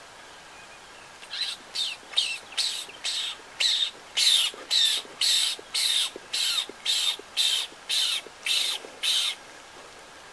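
A bird calling harshly in a rapid series of short, scratchy calls, about two a second, starting about a second in and stopping near the end.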